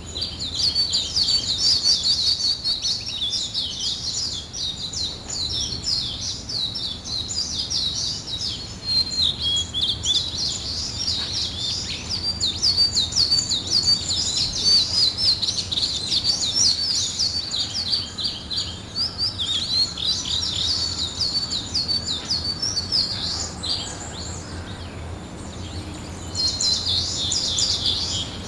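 Songbirds chirping and singing in a dense, continuous stream of quick, high notes, thinning briefly near the end before picking up again.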